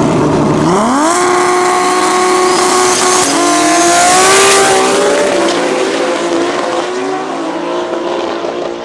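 Turbocharged BMW M50 straight-six in a drag-racing Audi S2 launching hard: the engine holds a steady lower note, then about two-thirds of a second in jumps to a high full-throttle note and holds it. It climbs again around three seconds in, is loudest just after, then fades and drops in pitch as the car pulls away down the strip.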